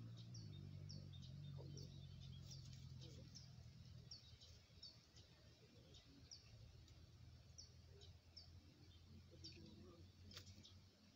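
Faint bird calls: short, high, falling chirps repeated in a steady series, about one or two a second. Under them a low steady hum fades out about four seconds in.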